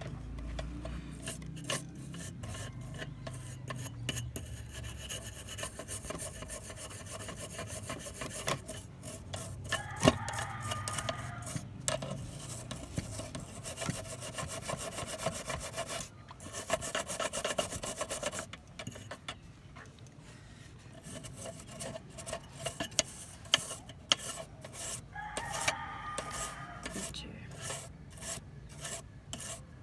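Repeated abrasive hand strokes rubbing back and forth on a lamp part under restoration, like sanding or filing. The strokes ease off briefly about two-thirds of the way through.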